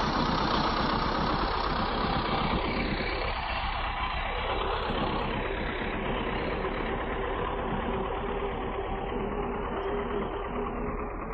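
Bulldozer's diesel engine running steadily, slowly growing quieter across a few seconds.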